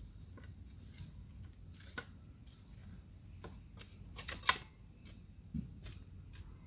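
Insects trilling steadily at one high pitch, with scattered light knocks and clicks; the loudest knock comes about four and a half seconds in.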